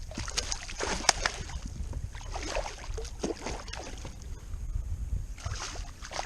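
Water splashing and sloshing, with irregular sharp knocks and rustles, as a hooked redfish is brought into a landing net; a steady low wind rumble runs underneath.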